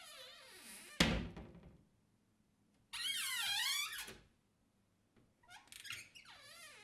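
Squeaky hinges of an old door creaking in wavering, rising and falling squeals. A sharp thud of the door shutting comes about a second in, a second long squeak follows a couple of seconds later, and another creak starts near the end.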